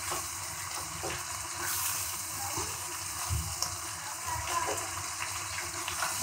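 Prawn curry gravy sizzling and bubbling in a non-stick kadai while it is stirred with a spatula: a steady hiss with faint scrapes and clicks of the utensil against the pan.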